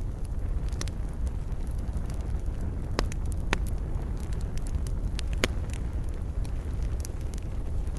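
Wood campfire burning: irregular sharp crackles and pops over a steady low rumble of the flames.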